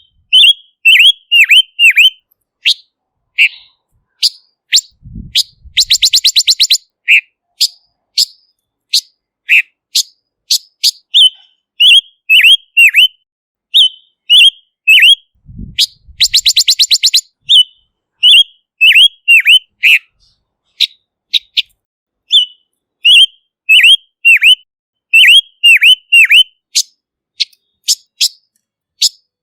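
Silver-eared mesia (Leiothrix argentauris) calling: runs of short, clear notes that dip sharply in pitch, repeated again and again, with a fast rattling trill of about a second and a half twice, near six and sixteen seconds in. A clean lure-call recording with no background noise between the notes.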